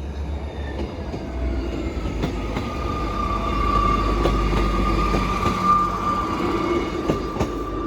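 East Midlands Railway Class 158 diesel multiple unit passing over the level crossing: a low rumble with scattered wheel clicks. A steady high-pitched tone runs through most of it from about a second in.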